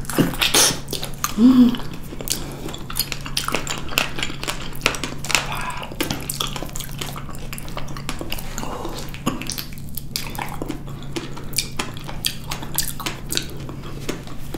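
Close-miked biting and chewing of fresh figs: a steady run of short wet, sticky clicks and mouth smacks, with a brief hum of the voice about a second and a half in.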